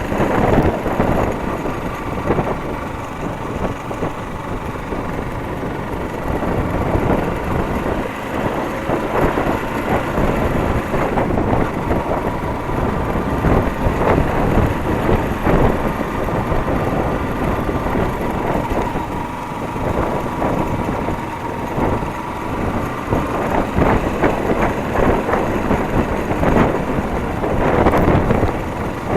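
Motorcycle engine running steadily while riding on the road, its note mixed with a continuous rushing noise and irregular knocks.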